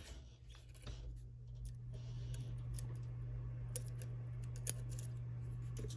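Scattered light clicks and taps of small metal tools and lock parts being handled, over a steady low hum.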